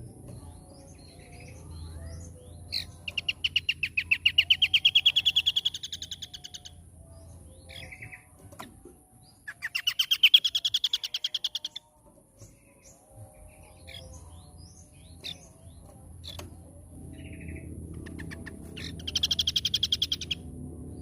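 Scaly-crowned babbler (asi topi sisik) singing its rapid-fire 'nembak' trills: three bursts of fast, evenly repeated notes, each two to three seconds long and rising slightly in pitch, with softer chirps between.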